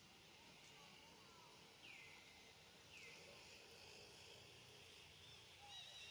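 Faint outdoor ambience with a steady high hiss, two short bird calls that fall in pitch about two and three seconds in, and a run of quick high bird chirps near the end.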